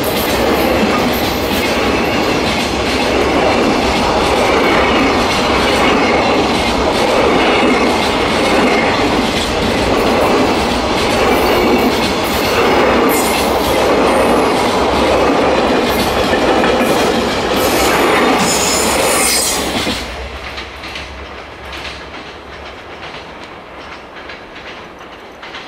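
Loaded freight container wagons rolling past close by, a dense steady running noise from the wheels on the rails with sharp high wheel squeals now and then in the second half. About twenty seconds in the noise drops sharply as the last wagon passes, leaving a fading rumble.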